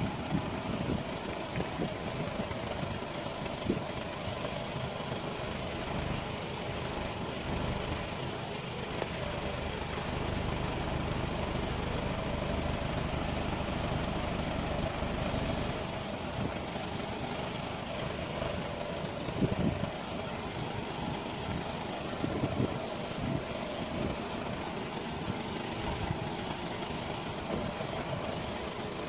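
Car engines idling steadily while stopped. A few short knocks come about two-thirds of the way through.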